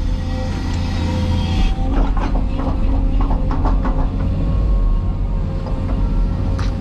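Cat 336E excavator's diesel engine running under load with a steady hydraulic whine, and a cluster of metal knocks and clanks about two to three seconds in.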